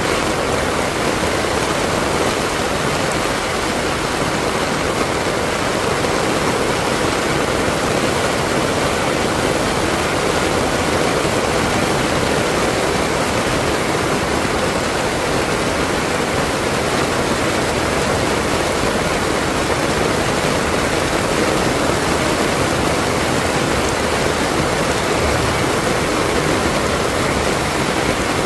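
Heavy rain pouring down in a loud, steady hiss that does not let up.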